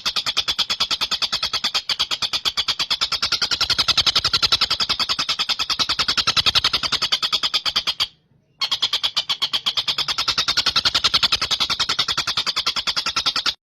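Tengkek buto kingfisher calling in a long, very fast run of sharp, high repeated notes, broken by one short pause about eight seconds in.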